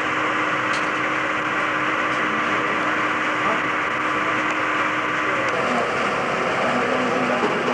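Steady machine noise with a hum that stops about five and a half seconds in, with faint voices in the background near the end.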